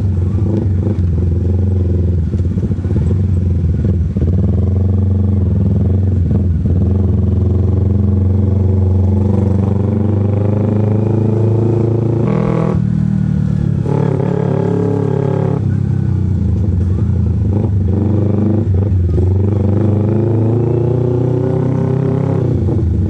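Carbureted Kawasaki Ninja 250R parallel-twin engine running while the bike is ridden, its pitch rising and falling with the throttle. It gets louder and brighter for about three seconds, some twelve seconds in.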